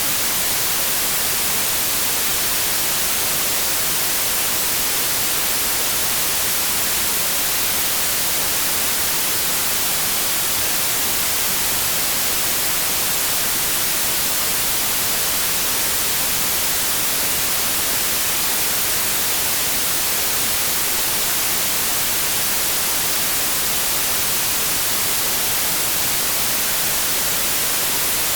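Steady white noise: an even, unbroken hiss that is brightest in the high frequencies, with no changes or events.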